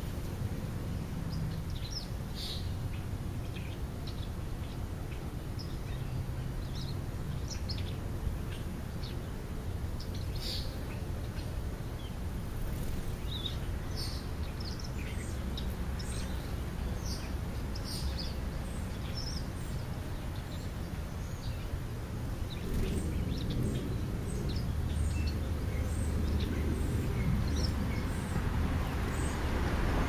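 Small birds chirping in short, scattered calls over a steady low rumble. Toward the end a vehicle approaches, its noise growing louder.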